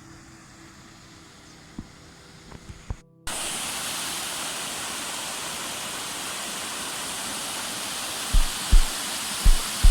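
Loud, steady rush of flowing rainwater that starts abruptly about three seconds in, after a quieter stretch with faint steady tones. From about eight seconds, low thumps come in pairs over the rush.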